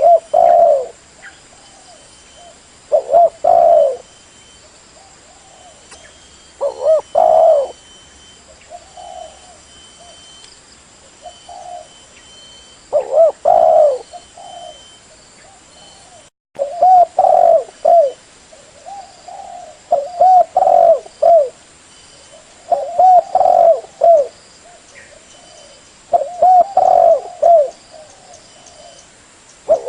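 Spotted dove cooing: short phrases of several rolling coos, repeated every few seconds and more often in the second half, with a brief dropout in the sound about halfway through.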